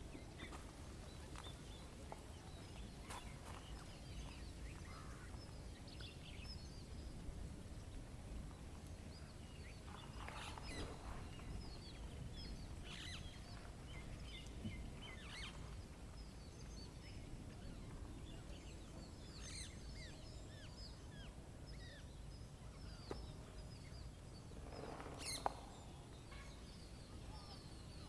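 Wild birds chirping and calling on and off, with a few louder calls about ten seconds in and again near the end, over a faint, steady low outdoor rumble.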